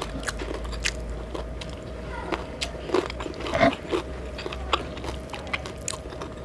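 Close-up mouth sounds of someone eating: biting and chewing with many small wet clicks and smacks. A faint steady hum runs underneath.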